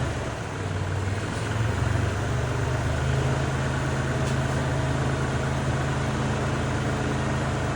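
Kubota tractor's diesel engine running steadily with a low, even drone, easing off briefly just after the start.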